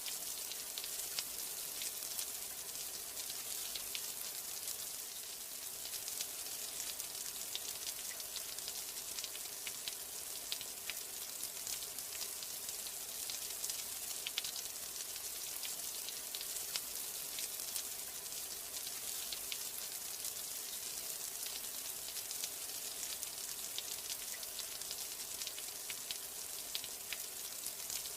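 Steady rain: an even high hiss with many individual drops ticking sharply throughout.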